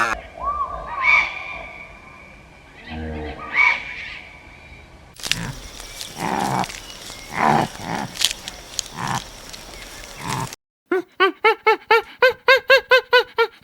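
A run of different animal calls joined by abrupt cuts: a few sliding calls, then several harsh, noisy calls, then a rapid series of short rising calls about five a second near the end.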